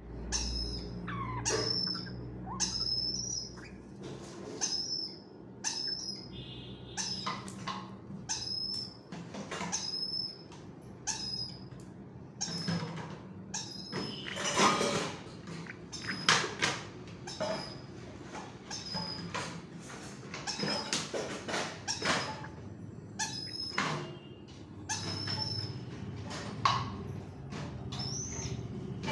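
African grey parrot chicks giving food-begging calls while being hand-fed: short, high, raspy calls repeated about once a second.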